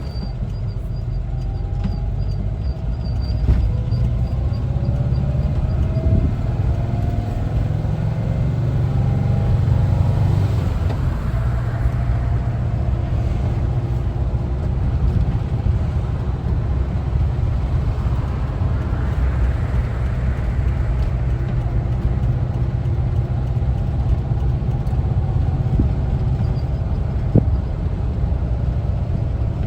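1974 Volkswagen Westfalia's air-cooled flat-four engine running while driving, under a steady low rumble of road noise. The engine note rises twice as the van accelerates. A faint, evenly spaced high ticking sounds in the first few seconds.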